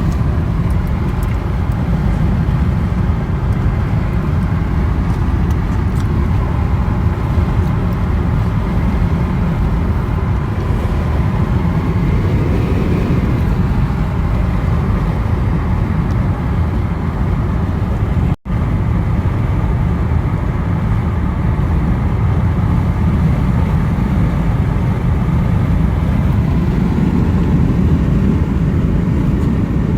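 Steady road and engine rumble of a car driving, heard from inside the cabin. The sound cuts out for an instant about 18 seconds in.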